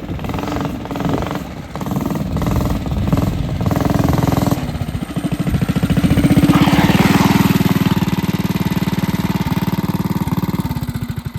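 Minibike's small engine revving in uneven surges, then running steadily at a higher, louder pitch before dropping away near the end.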